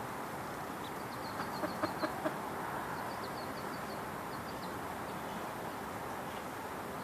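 Chickens clucking, a quick run of four or five clucks between about one and a half and two and a half seconds in, over a steady outdoor background hiss.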